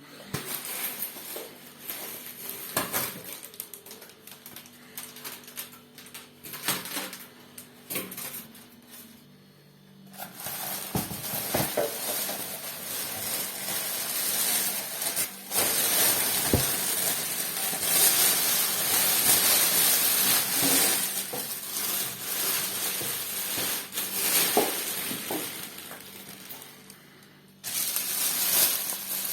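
Handling noises: scattered clicks and knocks for the first ten seconds or so, then a long stretch of dense rustling and scraping with light clatters, like plastic parts or packaging being handled. A short lull near the end is followed by more rustling.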